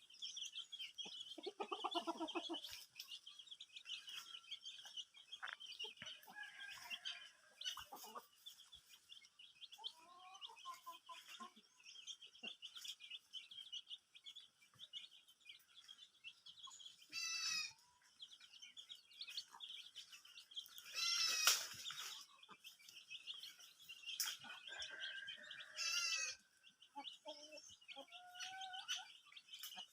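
Aseel chickens clucking and calling, with three louder, longer calls in the second half, over a steady chatter of small birds chirping.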